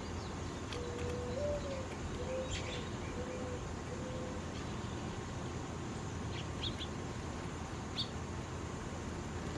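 A dove cooing: one longer note that lifts in the middle, followed by three shorter coos at the same low pitch. A few brief high chirps from smaller birds come later, over a steady background hum.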